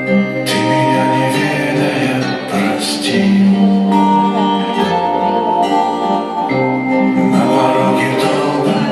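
Live band music: a slow song played with guitar and held chords.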